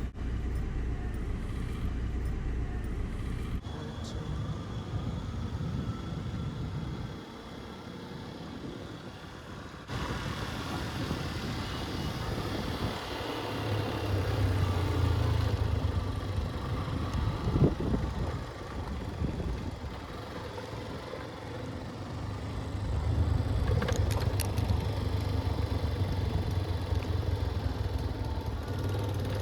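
Road traffic heard from a moving motorcycle: engine running with general traffic noise, the sound changing abruptly twice in the first ten seconds.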